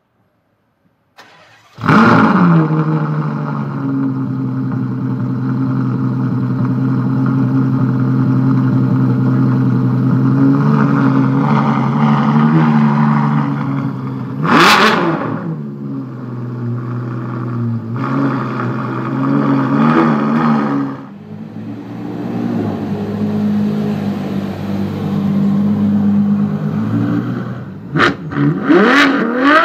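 Ferrari FF's V12 with a Novitec Rosso exhaust starting with a loud flare about two seconds in, then idling steadily. There is one sharp rev about halfway through and several quick revs near the end.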